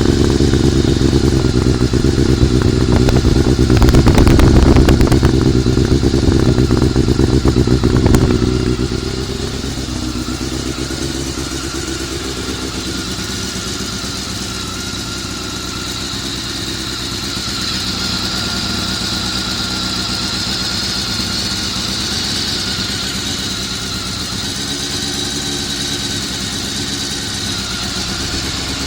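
Honda CBR400RR inline-four engine running at raised revs for about eight seconds, then dropping back to a steady idle, with a high whine above it later on. It makes an abnormal noise that the owner thinks may come from the gear-driven cam train.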